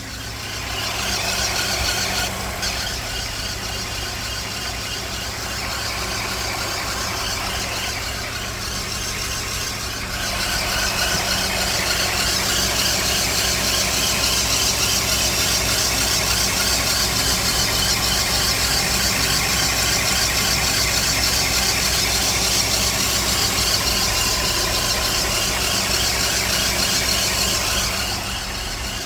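Car engine running with a continuous high-pitched squeal from a failing alternator. The squeal grows louder about ten seconds in and eases near the end.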